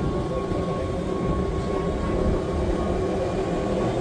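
Wengernalpbahn rack-railway train running: a steady low rumble of wheels and running gear with a steady whine over it.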